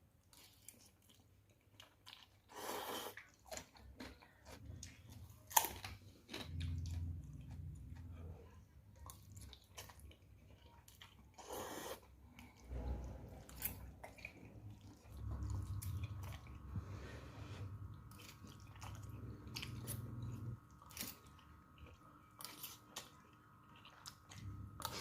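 A person eating mie aceh noodles with fried tofu close to the microphone: chewing and biting, with many short, sharp mouth sounds scattered throughout. A faint steady hum comes in about halfway through.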